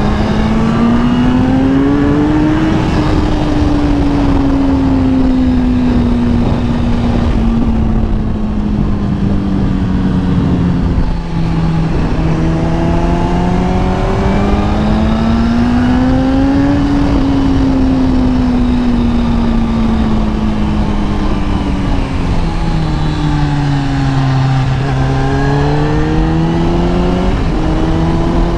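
Kawasaki ZX10R's inline-four engine pulling while the bike is ridden. Its note climbs and then sinks slowly three times as the revs rise and ease off. A steady rush of wind and road noise runs under it.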